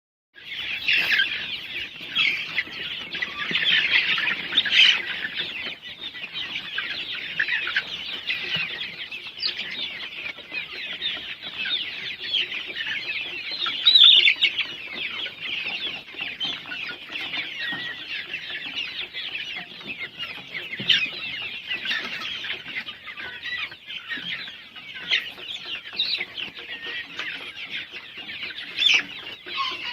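A large flock of 65-day-old Golden Misri chickens peeping and chirping all at once, a dense chorus of many overlapping high calls, loudest about five seconds in and again around fourteen seconds.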